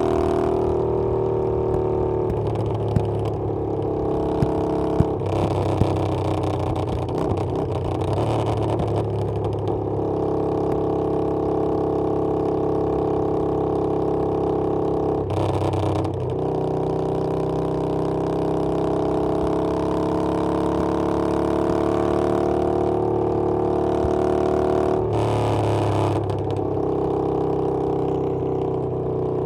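Harley-Davidson Iron 883's air-cooled V-twin running on the move, its pitch climbing steadily under throttle. The pitch breaks off for a gear shift about halfway through and again near the end, picking up lower each time. A few sharp ticks sound in the first six seconds.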